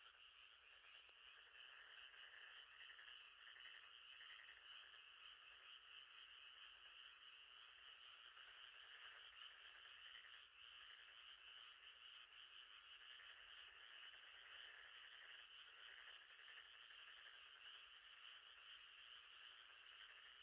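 Faint, steady night chorus of many frogs calling together, a dense unbroken layer of high calls.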